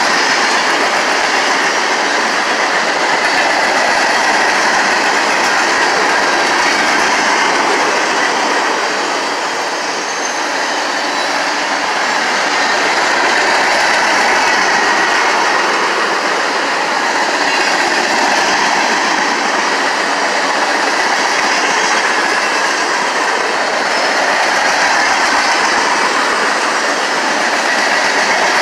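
NS train running along the track: a continuous rolling rail noise that swells and dips gently.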